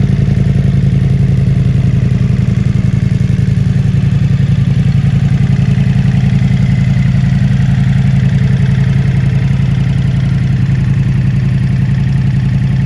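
Ducati Multistrada V4S's V4 engine idling steadily through a full Akrapovic exhaust system, a deep, even pulsing.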